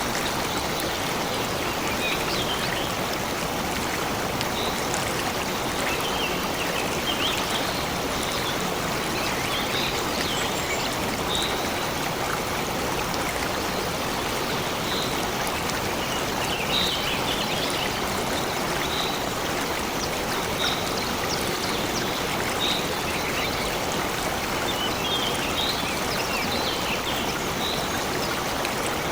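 A stream running steadily, with a bird calling a short high note about every two seconds and brief bouts of chirping in between.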